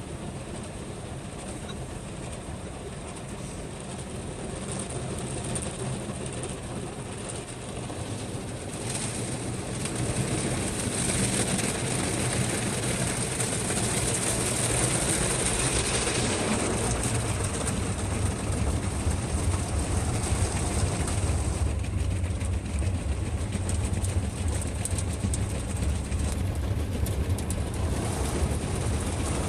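Automatic car wash heard from inside the car: a steady hiss of washing that swells partway through, then gives way to a heavy low rumble from the wash machinery.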